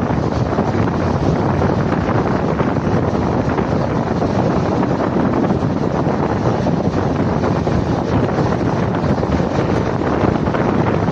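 Steady wind rushing over the microphone, mixed with the low rumble of a moving train.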